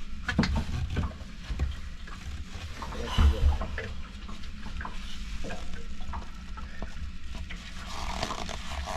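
Irregular clicks, knocks and rustling of things being handled, with a louder clatter about three seconds in, over a steady low rumble.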